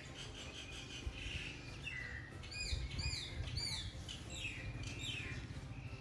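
Birds chirping and calling: a string of short high whistled notes, most of them falling in pitch, with three arching notes in a row about two and a half to four seconds in. A low steady hum runs underneath.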